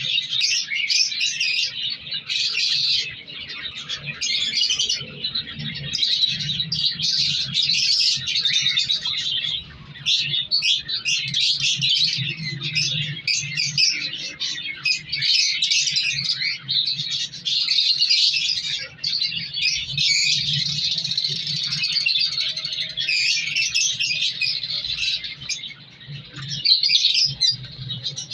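Many cage birds chirping and chattering without a break, with a steady low hum underneath.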